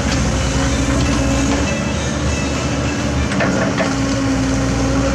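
Heavy excavator's diesel engine running steadily under work, with a low rhythmic pulsing and a few metallic clanks a little past the middle.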